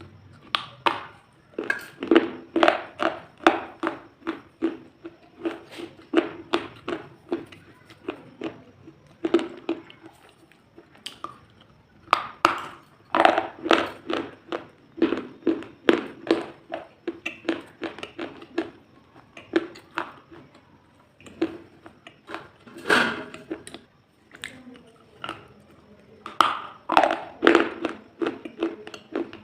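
Close-miked crunching: quick runs of crisp, crackling crunches in clusters, several to the second, with short pauses between runs.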